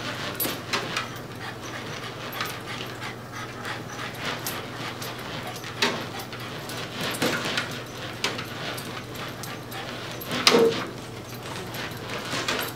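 Dog panting in short, irregular breaths, with a brief whimper about ten seconds in.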